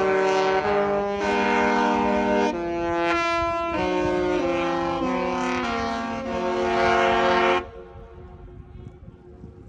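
The Disney Wish's musical ship's horn sounding a tune in held chords, each chord lasting about half a second to a second. It cuts off sharply a little before the end, leaving faint wind noise.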